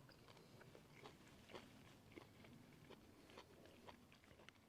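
Faint chewing: a man eating a bite of sausage, with soft, irregular clicks and crunches about every half second.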